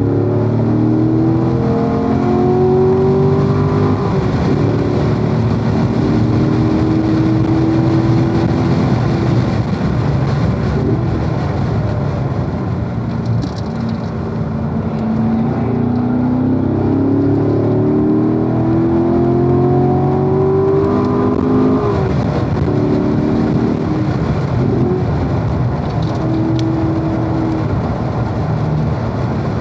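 Corvette V8 engine at full throttle on a race track, pulling hard through the gears. Its pitch climbs and then drops back at each gear change, eases off briefly about halfway through, then climbs again.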